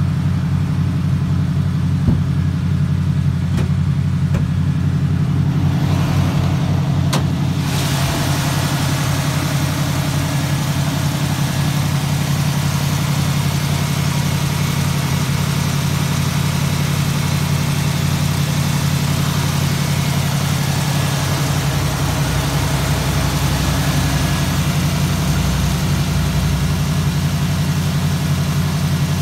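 1965 Ford Mustang V8 idling steadily, cold, not long after its first start of the year. About eight seconds in, a wider rush of engine noise joins the low, even idle.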